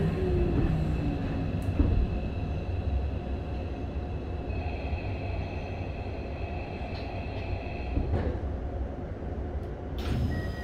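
Running sound inside a Keikyu 1000 series commuter car with a Toshiba IGBT-VVVF inverter and permanent-magnet synchronous motors: a steady rumble of wheels and motors, with a motor tone falling in pitch in the first two seconds and a single knock a little after halfway. Near the end, a few short electronic tones start.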